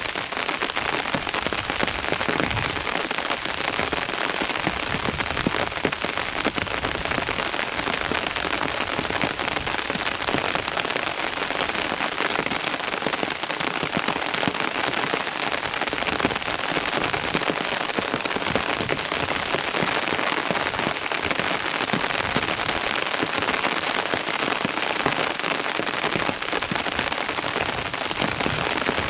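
Steady rain falling, an even patter of many drops that neither swells nor eases.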